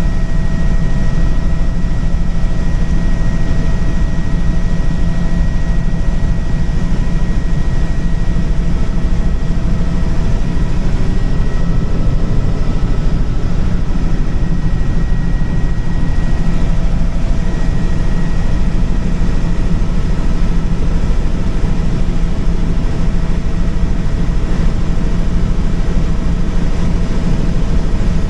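Helicopter in flight heard from on board: steady heavy rotor and engine noise, with a few steady whining tones above it.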